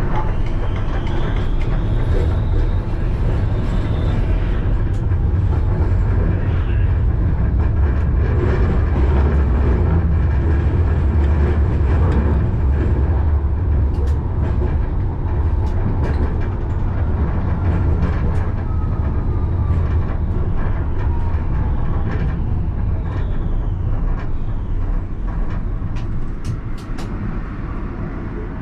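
Alstom Citadis tram running along its rails, heard from the driver's cab: a steady low rumble of wheels and running gear with a faint motor whine and a few clicks. The rumble eases off in the last few seconds as the tram slows.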